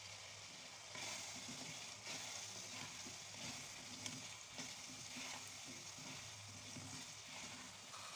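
Potato chunks and tomato masala sizzling in oil in a pan. From about a second in, a wooden spatula stirs and scrapes through them, with a few light knocks against the pan.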